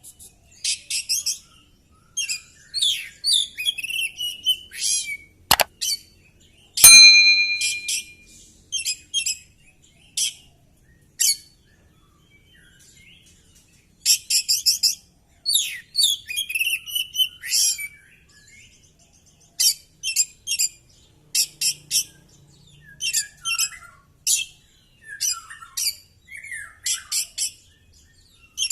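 Oriental magpie-robin singing in rapid bursts of high chirps, trills and varied phrases, with short pauses between. Two sharp clicks come about five and a half and seven seconds in; the second is the loudest sound.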